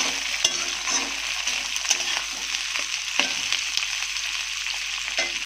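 Sliced onions sizzling in hot mustard oil in a kadai, a steady frying hiss, while a metal spatula stirs them and clicks and scrapes against the pan a few times. The onions are being fried until they turn red.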